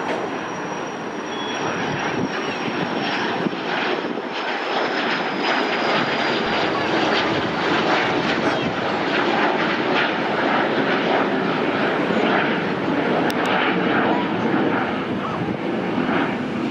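Cessna CitationJet CJ2's twin Williams FJ44 turbofans at takeoff power: a steady jet roar with a high whine that slowly falls in pitch over the first several seconds.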